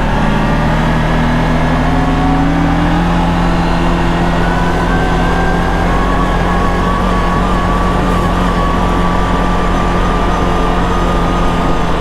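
CFMoto CFORCE 1000 Overland ATV's V-twin engine running under way, rising in pitch as it speeds up over the first few seconds, then holding a steady pace.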